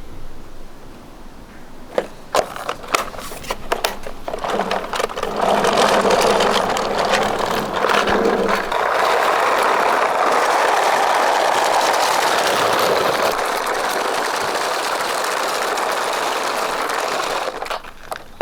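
Toy vehicle: a few sharp plastic clicks and clacks, then a steady rattling whir for about twelve seconds that cuts off suddenly near the end.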